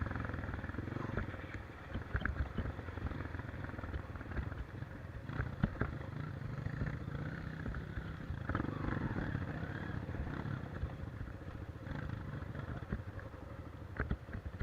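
Off-road motorcycle engine running on a trail ride, mixed with a steady rumbling noise and scattered knocks and clatter.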